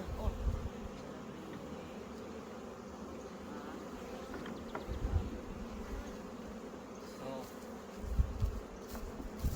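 Honeybees buzzing in a steady mass hum around opened hives, with a few low bumps about five seconds in and near the end.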